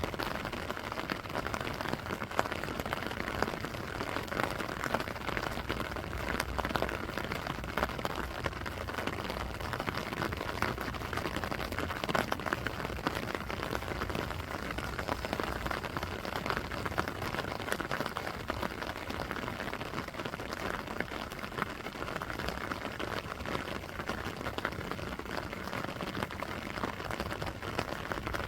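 Steady rainfall, with many small drop ticks scattered through it.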